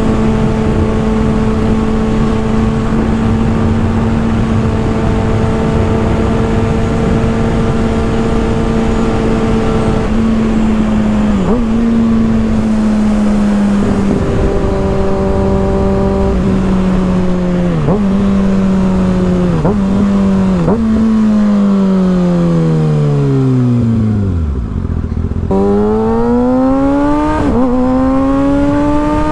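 Kawasaki ZX-6R 636 inline-four through an M4 GP exhaust, running. It holds a steady high note for about ten seconds, then dips and recovers several times in quick gear changes, winds down in one long falling note, and climbs again near the end through another shift.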